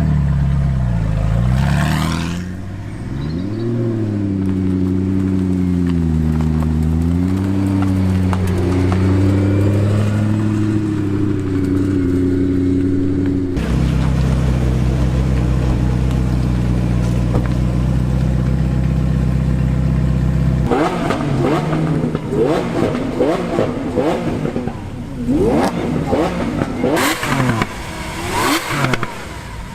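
Sports car engines running, first a steady drone whose pitch rises and falls gently, then, in the last third, a run of quick revs with the pitch sweeping up and down.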